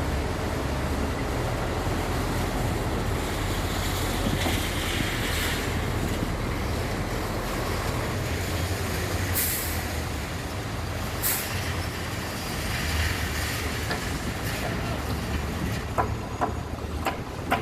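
Hyundai four-axle dump truck's engine running with a steady low rumble. Two short hisses come about halfway through, and a few sharp clicks near the end.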